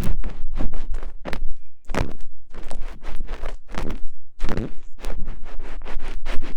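ASMR ear-picking sounds: rapid, irregular scratching and scraping strokes, several a second, with a couple of longer swishes.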